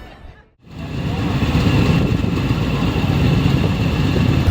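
Motorcycle engine running steadily, starting after a brief gap about half a second in, heavy rumbling noise in the lows.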